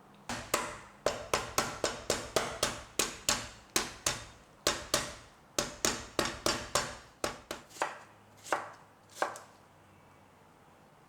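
Kitchen knife chopping food on a cutting board: a quick run of sharp strikes, about three a second, that slows to a few last cuts and stops.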